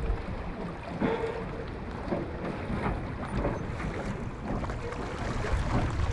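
Wind buffeting the microphone in gusts, a low rumble over the lakeside, with a brief faint tone about a second in.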